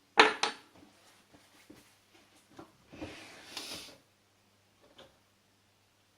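Metal hand tools and turbocharger parts being handled while a part is tightened: a sharp cluster of metal clicks and knocks just after the start, scattered light ticks, then about a second of scraping or rubbing around three seconds in, and one faint click near the end.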